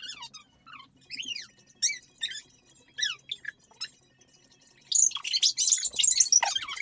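Video game sound effects: a string of short falling chirps, then a loud, dense crackling burst about five seconds in.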